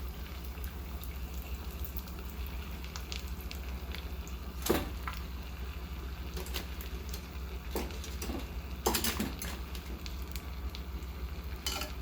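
Spring rolls sizzling steadily as they fry in hot oil, with a few sharp clinks of a utensil against the pan.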